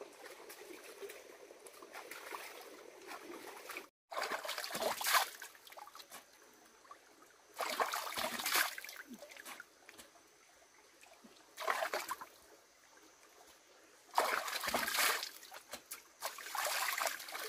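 Water splashing and trickling. After a brief cut-out about four seconds in, it comes as five loud spells of a second or so each.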